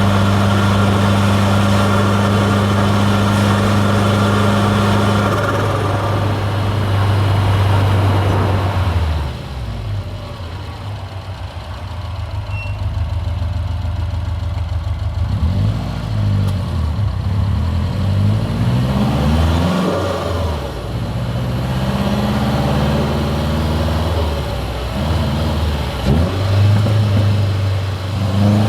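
Hybrid-turbo Subaru WRX STI's turbocharged flat-four engine holding a steady drone at cruise. About nine seconds in it lifts off and goes quieter. In the second half it revs up and down again and again through the gears, rising sharply right at the end.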